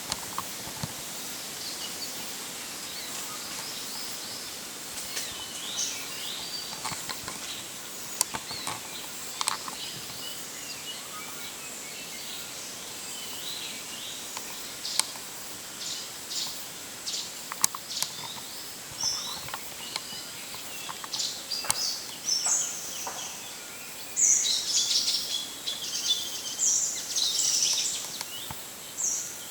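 Wild birds chirping over a steady high background hiss, with scattered sharp clicks. A run of louder, rapid chirps comes near the end.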